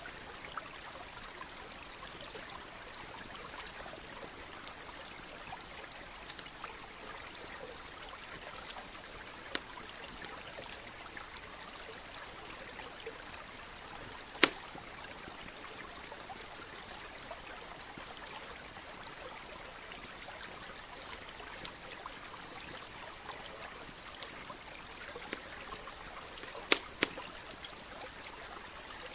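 Campfire crackling with scattered sharp pops, the loudest about halfway through and two more near the end, over the steady trickle of a nearby stream.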